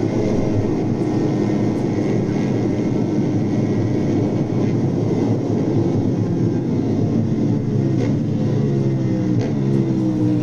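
Motor vehicle engine and road noise at speed: a loud, steady rumble, with the engine's tone coming through more clearly and dropping slightly near the end.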